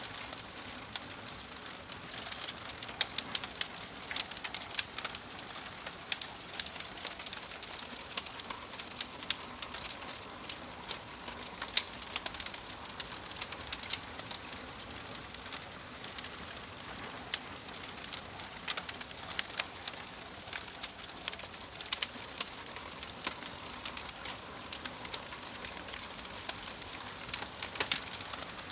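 Wood fire crackling in a fireplace: a steady soft hiss with frequent sharp pops and snaps scattered irregularly throughout.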